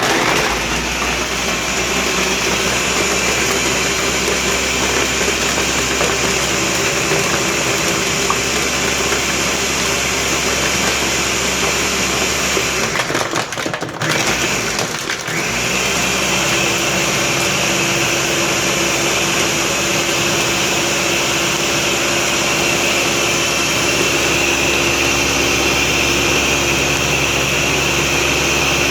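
Electric blender running at full speed, crushing ice with blackberries, blueberries and sea moss. The motor sound falters briefly about 13 seconds in, then runs steady again with a smoother, more even tone.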